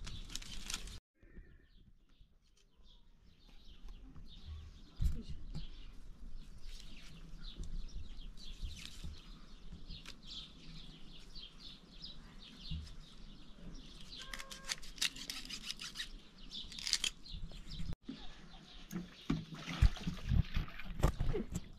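Birds chirping, many short calls scattered through, with a few sharp knocks near the end.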